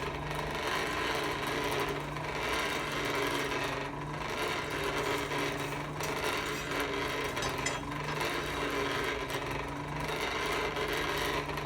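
Metalworking tool noise in regular strokes, swelling and easing about every two seconds over a steady hum.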